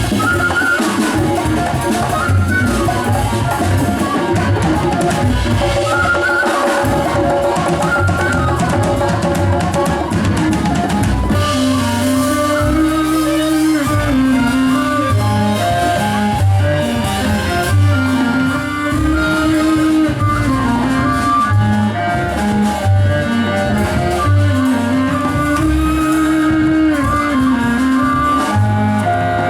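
A live band playing, with a drum kit keeping the beat. About eleven seconds in, the music changes into a repeating melodic phrase over a steady low pulse.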